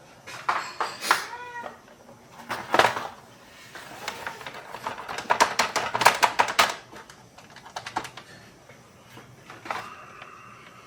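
Clicking and clattering of a plastic toy electronic organ being handled, its keys and buttons pressed, with a few short squeaky tones among the clicks.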